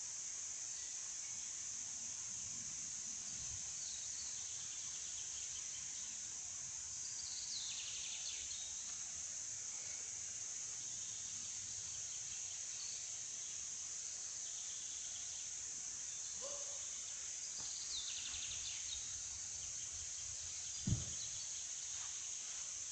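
Forest ambience: a steady high-pitched insect drone, with a few short descending bird calls now and then. A single low thump sounds about 21 seconds in.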